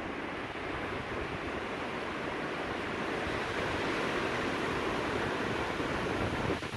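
Strong wind blowing in a steady rush, growing a little louder toward the end.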